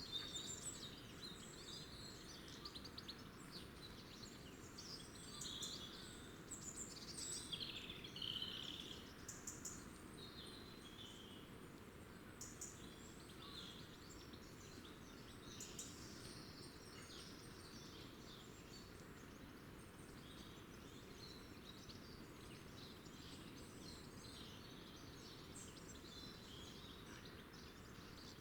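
Small songbirds chirping and twittering, many short calls overlapping in the first ten seconds or so, then sparser, over a faint steady low background noise.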